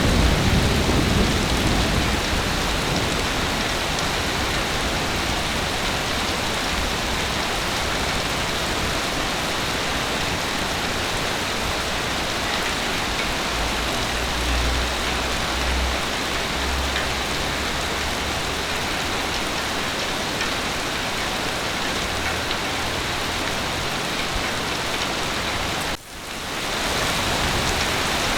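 Heavy rain pouring steadily. A low thunder rumble fades out in the first couple of seconds, another low rumble comes a little past the middle, and the sound briefly drops out about two seconds before the end.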